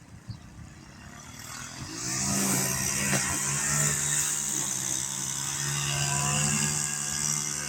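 Mower engine revving up over the first two seconds, then running steadily at speed with a high hiss over it, working hard in tall, tough grass.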